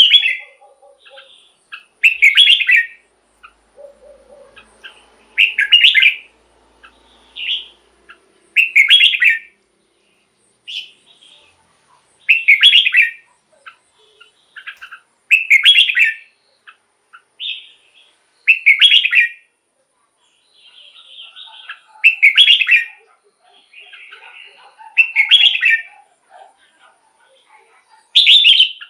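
Red-whiskered bulbul singing: loud, short whistled phrases repeated about every three seconds, with softer chirps between them.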